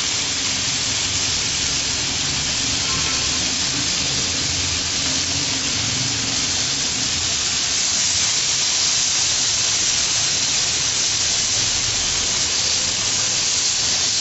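Skewered chicken malai boti sizzling on a hot grill pan as the pieces are turned and pressed down, a steady hiss.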